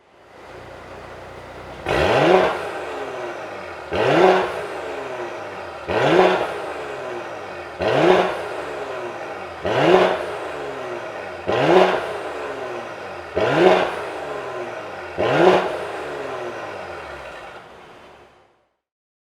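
Mercedes-AMG GLE43's M276 3.0-litre twin-turbo V6 idling and blipped eight times through an aftermarket Stone Exhaust with catalytic downpipes. The revs come about every two seconds, each rising sharply and falling back to idle. The engine cuts off near the end.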